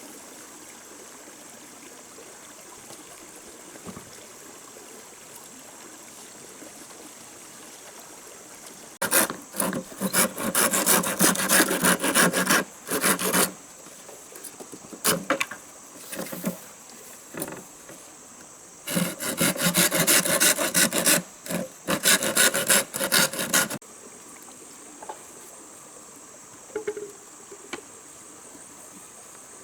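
Hand saw cutting through wood in two bouts of fast back-and-forth strokes, the first about nine seconds in and the second about nineteen seconds in, each lasting four to five seconds, with a few single strokes between.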